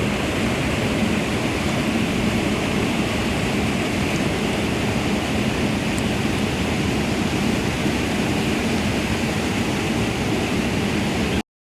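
Steady rushing noise with no clear rhythm or pitch, cutting off abruptly near the end.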